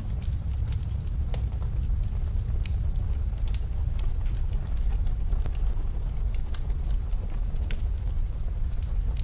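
Wood fire crackling with scattered sharp pops, over a steady low rumble of blizzard wind.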